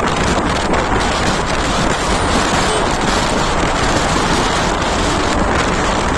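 Wind buffeting the microphone while travelling along a road: a loud, steady rush of noise.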